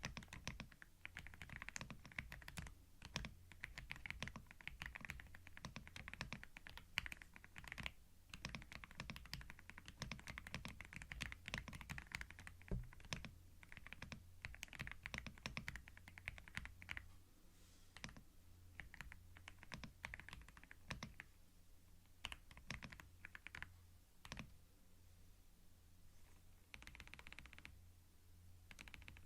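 Computer keyboard typing: runs of quick key clicks broken by short pauses, over a faint steady low hum.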